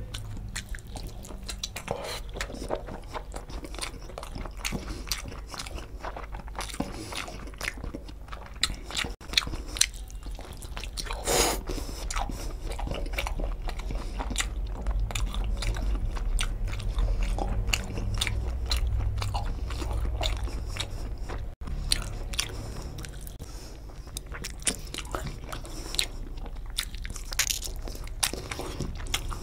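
Close-up mouth sounds of a person eating chicken curry and rice with his fingers: wet chewing, smacking and biting as he gnaws meat off a chicken drumstick, with one louder crunch partway through. A steady low hum runs underneath.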